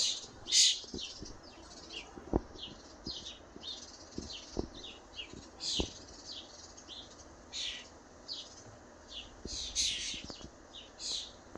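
Fledgling songbirds giving short, high begging chirps in quick succession, several a second, the calls of young birds waiting for a parent to feed them. A few soft taps sound among the calls.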